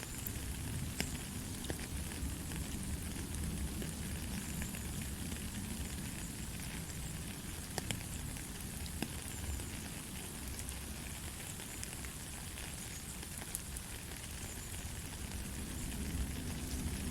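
Light rain falling steadily: an even hiss with scattered sharp taps of single drops, without thunder.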